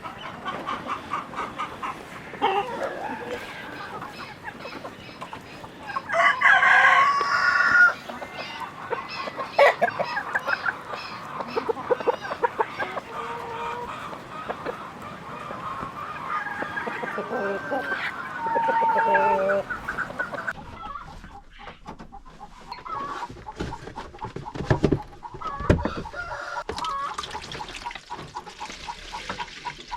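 Chickens clucking, with a rooster crowing loudly for about two seconds around six seconds in.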